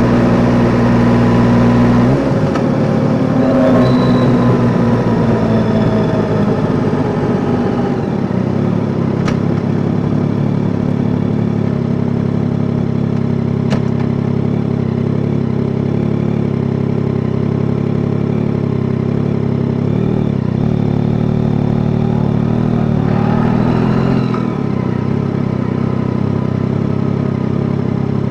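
Yamaha Tracer 9 GT's three-cylinder engine running on the move, with its note shifting about two seconds in, a falling pitch a few seconds later, and another change near the end. Two sharp clicks stand out in the middle.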